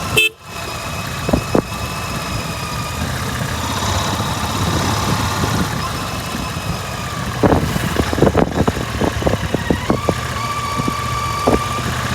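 Royal Enfield Interceptor 650's 648 cc parallel-twin exhaust running steadily under way. The sound drops out briefly just after the start, and a run of sharp cracks comes through from about halfway to near the end.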